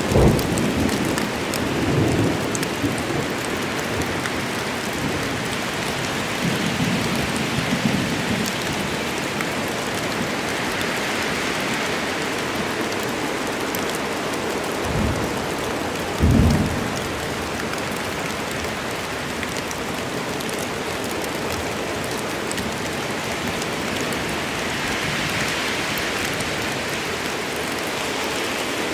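Steady rain storm: heavy rain falling without a break, with low rumbles of thunder in the first few seconds and again a little later, and a short, loud low crack of thunder about halfway through.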